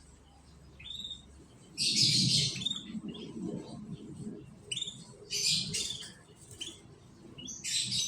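Canaries chirping in short, high calls, with three louder bursts of rapid chirping about two seconds in, midway, and near the end.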